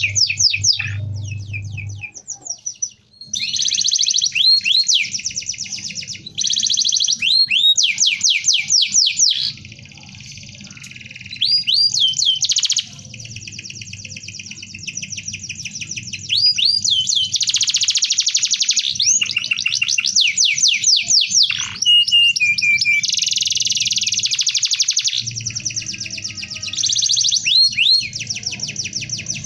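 Domestic canary singing a long, dense rolling song: fast trills and runs of repeated chirps that change phrase every second or two, with a low steady hum beneath.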